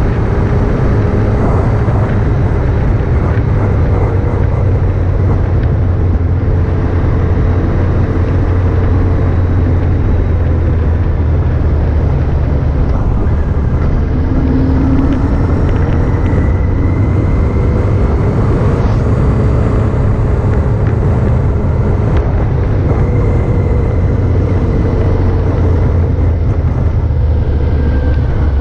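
Motorcycle on the move, its engine running at a steady pace under a loud, even low rumble of wind and road noise, with only slight drifts in engine pitch.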